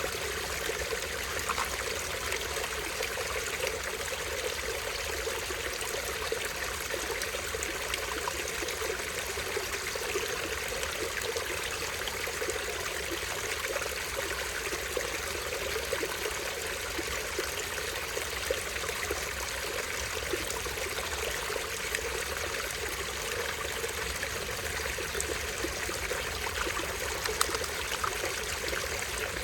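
Small stream running steadily over rocks, with the continuous splashing and trickling of a tiny waterfall.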